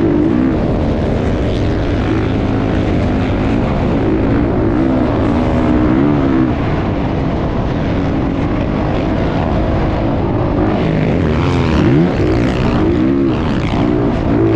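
Several motocross bike engines revving continuously, their pitches rising, falling and crossing one another as the throttles open and close.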